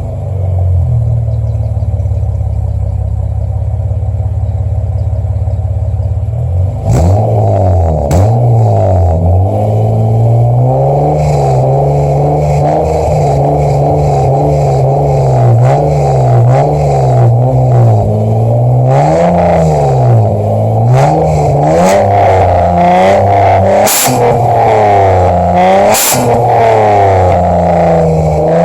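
2010 Acura TL's warmed-up V6 heard at the tailpipe: a steady idle, then from about seven seconds in a run of repeated throttle blips, the pitch rising and falling quickly. Two sharp cracks stand out near the end.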